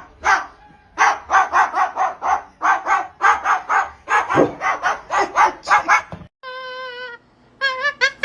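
Rapid series of short, sharp dog-like barks, about three or four a second, cutting off about six seconds in. A brief steady tone follows, and a warbling pitched sound starts near the end.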